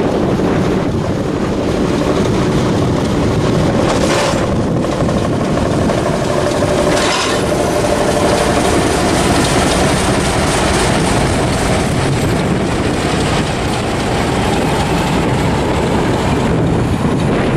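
Diesel locomotive passing over a level crossing, its engine running and its wheels clattering over the rails. There is a steady rush of wind on the microphone.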